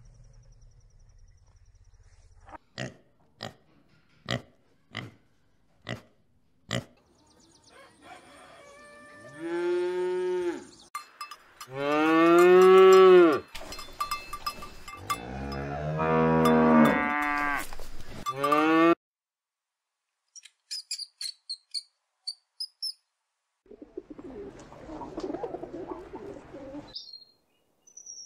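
Cow mooing: several long, loud moos, each bending in pitch, in the middle stretch. Before them comes a series of six sharp clicks about a second apart.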